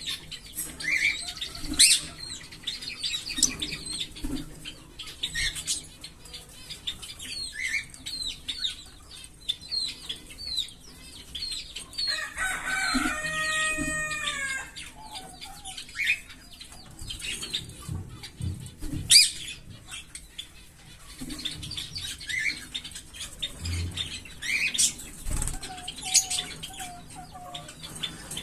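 Small pet parrots chattering, with many quick, high chirps throughout. A longer, harsher call comes about halfway through, and occasional thumps and wing flutters are mixed in.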